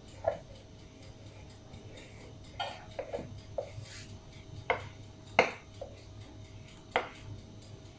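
A kitchen utensil knocking and clinking against kitchenware, about nine sharp, irregular knocks, as cake batter is poured and scraped into a lined cake tin.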